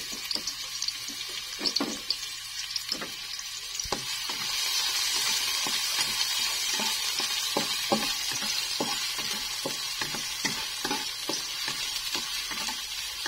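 Chopped onion sizzling in hot oil in a wok, stirred with a spatula that gives frequent short clicks and scrapes against the pan. The sizzle gets louder about four seconds in.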